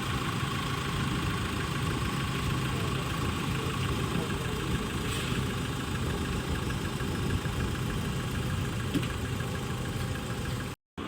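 Engine on a jet dryer truck running steadily at a constant speed, with a low hum and a steady higher tone, cutting off abruptly just before the end.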